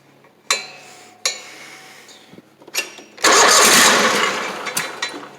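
Small stump grinder engine being cranked: a few sharp clicks, then a loud burst of engine noise that dies away after under two seconds without settling into a run.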